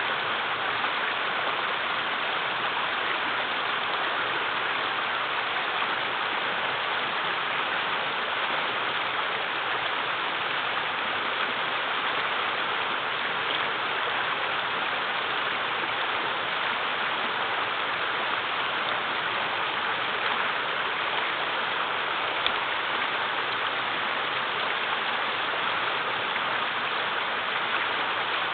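Mountain river running low over rocks and small waterfalls: a steady, unbroken rush of flowing water.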